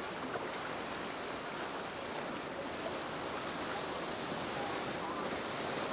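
Steady rush of river water pouring over a dam and through rapids.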